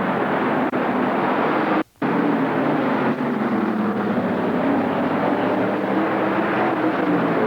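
Big vehicle engine running, its pitch drifting slowly up and down, typical of a monster truck being driven off its trailer. The sound cuts out completely for a moment about two seconds in, then resumes.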